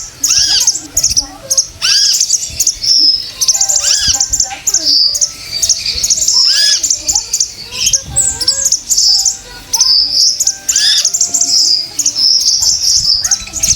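Female konin songbird chirping: rapid, high, thin chirps and trills repeating without pause, mixed with short arched and sliding whistled notes. These are the female calls used as a lure to set a male konin singing.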